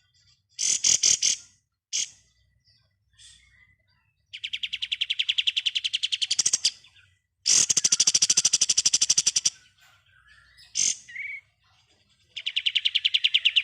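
Kapas tembak songbird singing its 'ngebren' song: long, very fast machine-gun-like trills, three of them, with short sharp chirps in between.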